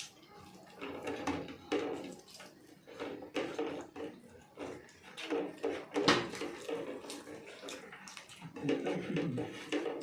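Wet, smacking mouth sounds of people chewing biryani: irregular bursts of smacks and clicks at a quick, uneven pace.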